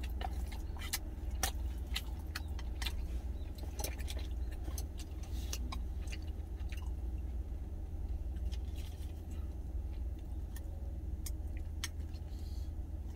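A man chewing food, with frequent sharp clicks of a spoon and chopsticks against a stainless steel cup, over a steady low hum.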